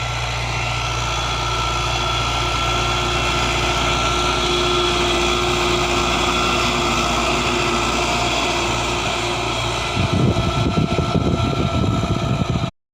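A 90 hp 5911 tractor's engine runs steadily, pulling a 15-tine cultivator, and grows slightly louder. About ten seconds in a louder, uneven low rumble joins it, and the sound cuts off abruptly just before the end.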